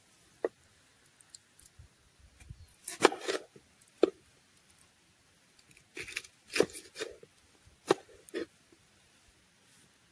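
Knife cutting food on a board: separate crunching cuts and knocks at irregular intervals, the loudest about three seconds in and again between six and eight seconds.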